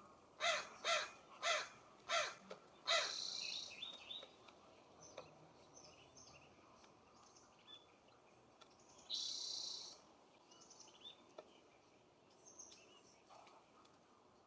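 Wild birds calling. Five loud, harsh calls come in quick succession in the first three seconds, then a high buzzy trill. Scattered small chirps and a second high buzzy trill follow a little past the middle.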